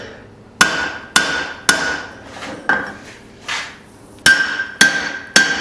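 Blacksmith's hand hammer striking hot steel on an anvil, about two blows a second with a short pause midway, each blow leaving a bright metallic ring.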